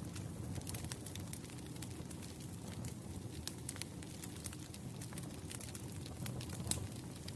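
Wood campfire burning: a steady low rumble with scattered sharp crackles and pops from the burning logs.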